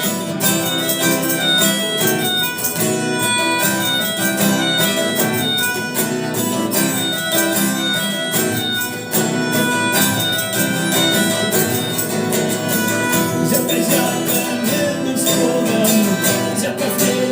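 Instrumental break of a rock song: a guitar band playing, with a melodic lead line carried over the chords and no singing.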